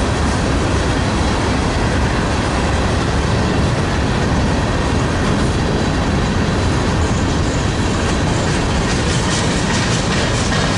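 Freight train cars rolling past, a loud, steady rumble and rattle of wheels on rail with no break.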